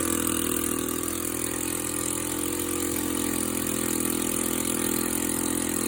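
Small pull-start gasoline engine running steadily at full throttle on a cold start, its carburetor primed full of fuel to get it to fire.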